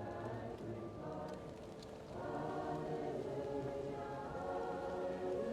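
A choir singing slow, held chords, muffled as if from another room. The voices thin out for a moment about a second and a half in, then swell again. A few faint crackles and pops from a wood fire sound over them.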